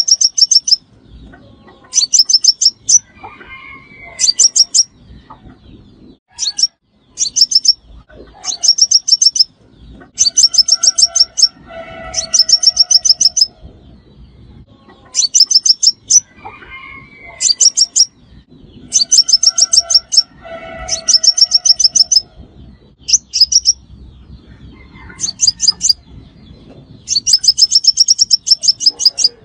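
Sunbird lure calls: bursts of rapid, high, ringing trills about a second long, repeated every couple of seconds, with lower warbled notes under a few of the bursts.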